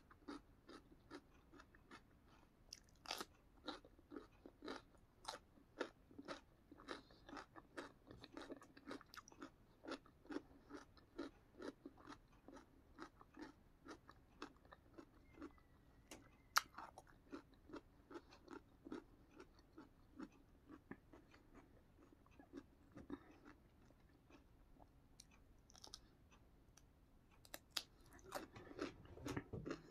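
Faint, close-up crunching of a person biting and chewing raw salad vegetables, carrot sticks among them: a steady run of crisp crunches, about two a second.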